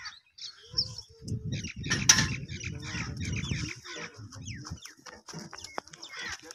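Small birds chirping over and over in short falling notes. For a few seconds in the middle a dense low rumble with knocks sits underneath, louder than the birds.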